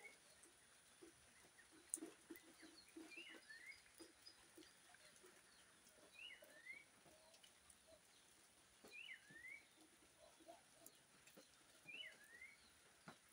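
Faint outdoor background: a bird repeating a short high call that rises, dips and rises again, about every three seconds, over soft low animal sounds.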